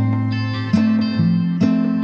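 Background music: plucked acoustic guitar picking out notes about twice a second over held bass notes.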